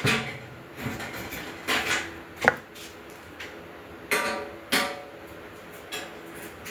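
Metal parts of a charcoal grill knocking and clanking together as it is being assembled: a series of irregular knocks, the sharpest about halfway through, several ringing briefly.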